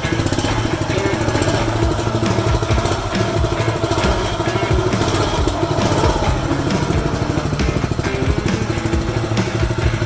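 Small engine of a custom-built minibike running as it is ridden, with a rapid, even firing beat.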